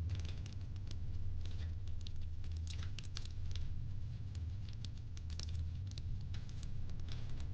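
Fireplace crackling: irregular sharp pops and snaps throughout, over a steady low rumble.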